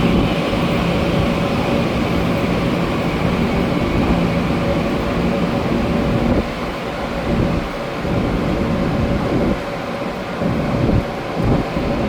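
Taiwan Railway TEMU2000 Puyuma tilting electric multiple unit pulling out of the station: a steady electric motor hum over wheel-on-rail rumble, the low hum easing about six and a half seconds in.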